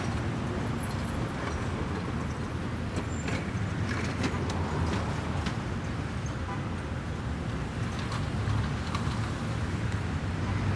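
City street traffic: a steady rumble of passing cars and engines, with a few faint knocks and clicks.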